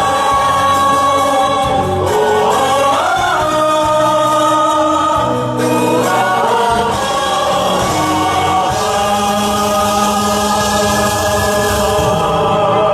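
A group of voices singing a slow song with long held notes and slides between pitches, over instrumental backing.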